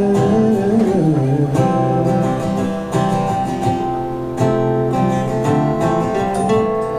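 A live band playing an instrumental passage of a rock song, led by strummed acoustic guitar chords. A wavering held note trails off about a second and a half in.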